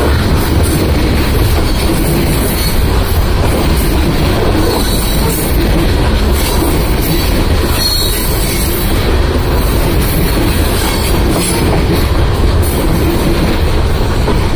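Coal gondola cars of a freight train rolling past at close range: a steady, loud rumble of steel wheels on the rails.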